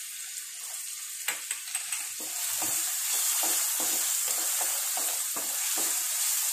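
Chopped onions and tomatoes sizzling in a non-stick pan while a wooden spatula stirs and scrapes them, about three strokes a second, starting about a second in. The sizzle grows louder about two seconds in.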